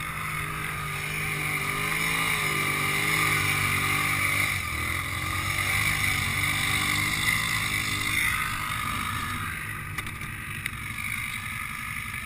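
ATV engine running steadily under throttle, its pitch wavering for a moment early on and its level swelling and easing as the machine moves along.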